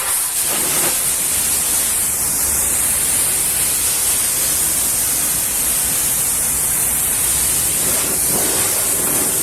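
Pressure washer spraying water, a steady hiss.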